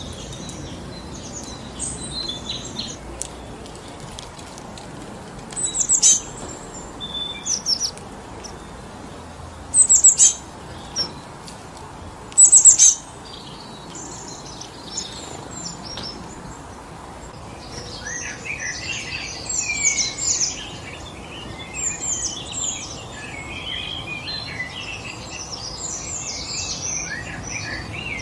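Songbirds chirping and calling over a steady rush of wind through forest trees. A few loud, sharp call bursts come about six, ten and twelve seconds in, and in the last third several birds call at once in a busy chorus.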